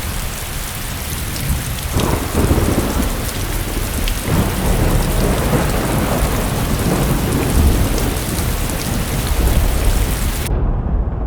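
Heavy rain falling in a steady hiss, with a long roll of thunder rumbling from about two seconds in. Near the end the rain's hiss cuts off abruptly, leaving only the low rumble.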